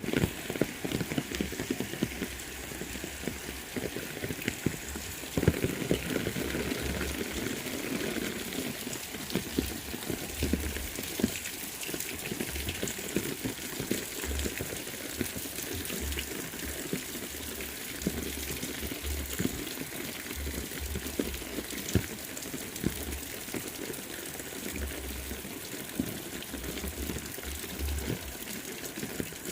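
Heavy rain falling steadily, a dense patter with many sharp drop impacts, and low rumbles coming and going.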